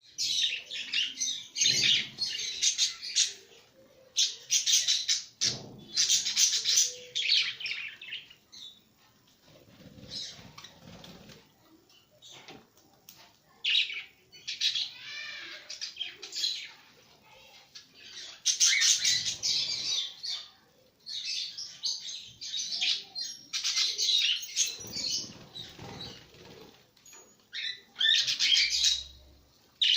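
Pet lovebirds and cockatiels chirping in bouts of rapid, high-pitched chirps a few seconds long, with short quieter gaps between them.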